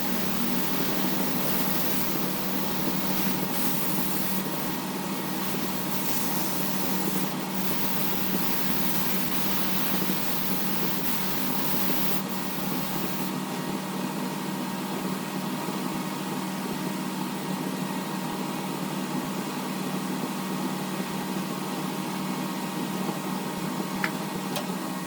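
Large wood lathe running steadily with a motor hum and a thin whine, under a hiss that is stronger and uneven for the first half and eases after about 13 seconds.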